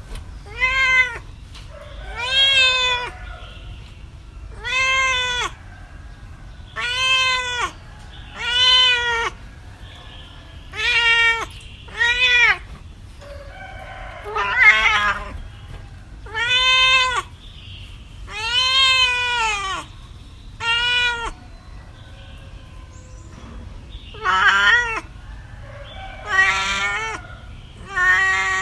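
A cat meowing over and over, about fourteen separate meows roughly every two seconds, each rising and then falling in pitch. The last few meows, near the end, sound rougher.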